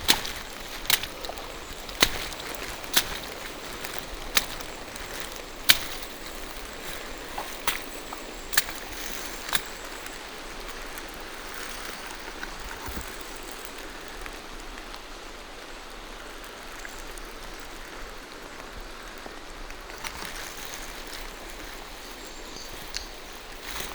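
Steady rain falling through forest trees. Over the first ten seconds, sharp ticks come roughly once a second above the rain, then stop.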